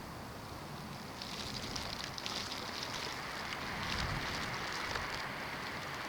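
Snowstorm wind blowing, with a spell of fine crackling ticks from about one second in until about five seconds, and a low gust on the microphone about four seconds in.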